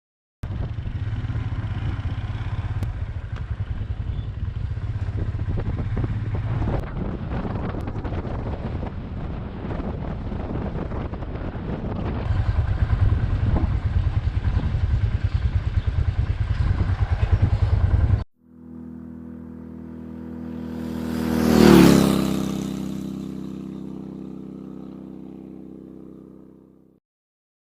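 Royal Enfield Himalayan motorcycle being ridden along, engine running steadily. About 18 seconds in it cuts off suddenly to a steady hum, and a vehicle passes close by, loudest about 22 seconds in, then fades away.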